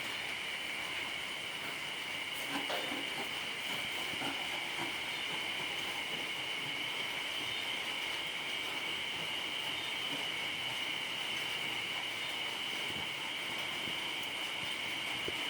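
Steady hiss of light drizzling rain with a constant high-pitched two-tone drone over it, and a few faint knocks in the first few seconds.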